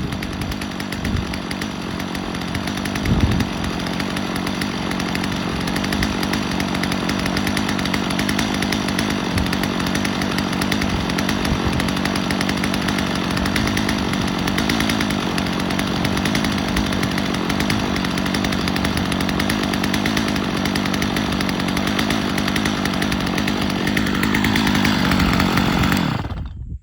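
Stihl MS 250 two-stroke chainsaw running steadily. Near the end its engine note rises, then the sound cuts off suddenly.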